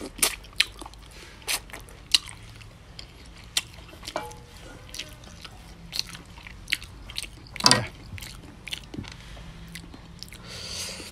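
A person chewing and biting goat meat off the bone, with many short wet mouth smacks and clicks. The loudest smack comes about three-quarters of the way through.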